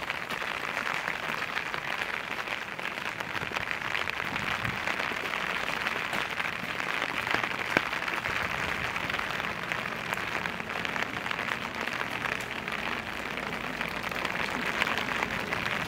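Steady rain pattering, a dense crackle of many small drop ticks, with one sharper tap about eight seconds in.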